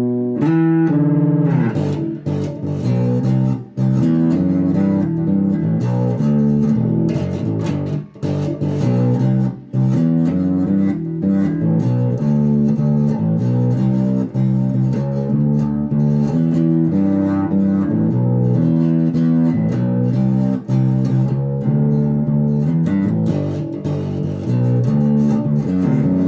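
Epiphone Grabber electric bass played through an Aguilar Tone Hammer preamp with AGS on, humbucker pickup selected: a continuous plucked bass line of changing notes with a few short gaps.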